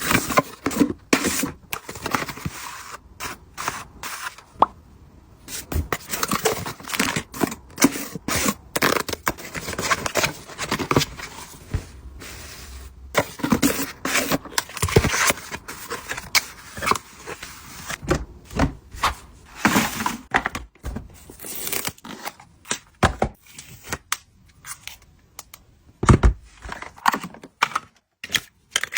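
Packaging and items being handled during an unboxing: irregular rustling, scraping and light tapping, with a few sharper knocks.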